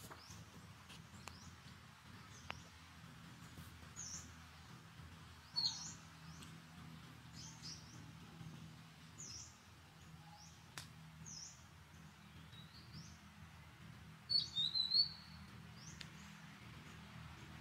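Small birds chirping: short high chirps repeating about once a second, with a louder flurry of chirps near the end, over a faint steady low background hum.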